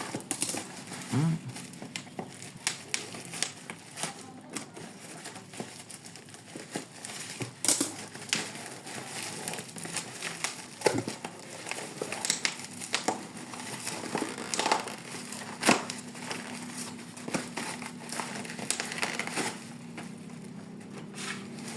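Packaging being handled and unwrapped, crinkling and rustling with irregular sharp crackles throughout.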